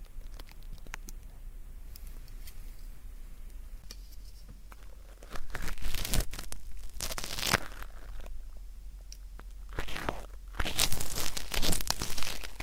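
Ear-cleaning tool scratching and crackling against an ear at the microphone, working dry, crackly earwax. The scratching is faint at first and gets much louder and denser from about five seconds in.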